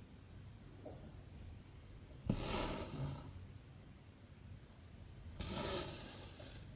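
Cotton embroidery thread pulled through cross-stitch fabric: two short rasping swishes about three seconds apart, the first starting with a light tick.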